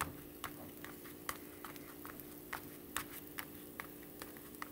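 Oil popping and crackling in a frying pan under a frying quesadilla: sharp, irregular pops, about four a second, over a faint steady hum.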